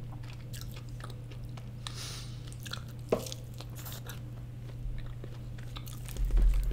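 A person chewing a mouthful of cheesy loaded fries with chicken: soft wet mouth sounds and scattered small clicks, with one sharper click about three seconds in. A steady low hum runs underneath.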